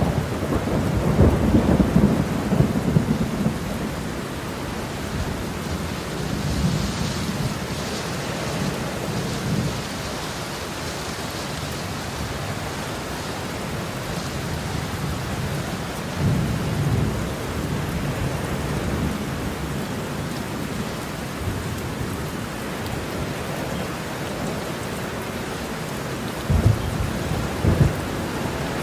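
Heavy rain falling steadily with thunder: a long low rumble in the first few seconds, the loudest part, another rumble about halfway through, and two sharper thunder cracks near the end.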